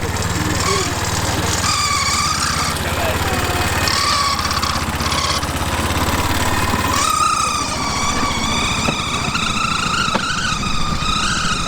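Small engine of a Cambodian bamboo train (norry) running as it carries riders along the rails. About seven seconds in, a high wavering whine joins the engine and lasts to the end.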